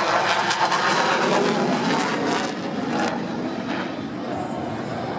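Jet noise from a Dassault Rafale C fighter's two Snecma M88 engines during a display pass, a broad rumbling roar with crackle that eases after about two and a half seconds.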